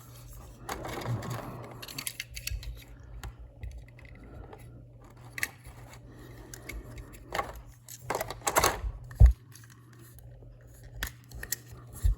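Small plastic toy train cars being handled: scattered clicks, scrapes and rustles, with one sharper knock about nine seconds in.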